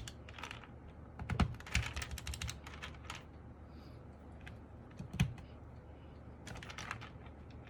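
Typing on an MK870 tenkeyless mechanical keyboard fitted with Sky Panda tactile switches and Cherry-profile dye-sub keycaps: irregular bursts of keystrokes, one quick run about two seconds in. A few louder, deeper strikes come about one and a half and five seconds in.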